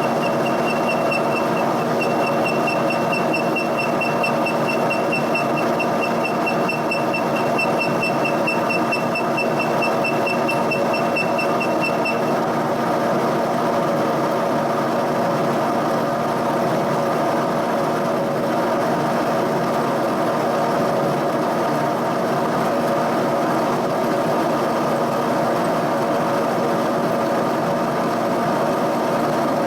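Giddings & Lewis boring mill running steadily while boring out a worn pivot hole to size, a constant machine hum. For the first twelve seconds or so a high, rapidly pulsing whine rides on top, then stops.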